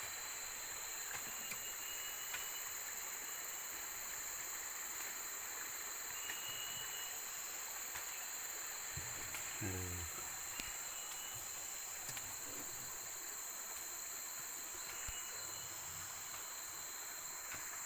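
A steady chorus of insects, with several shrill, unbroken tones, and a few short chirps over it. A brief low call or voice-like sound comes a little after halfway.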